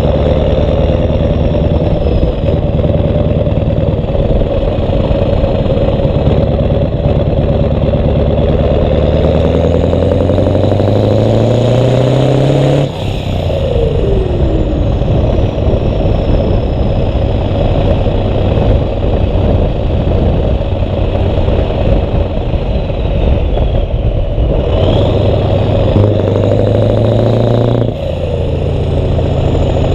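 Scania 143's V8 diesel engine running loud through its exhaust. The engine note climbs steadily for about thirteen seconds, then cuts down abruptly, followed by a falling whistle. It climbs once more and drops again near the end.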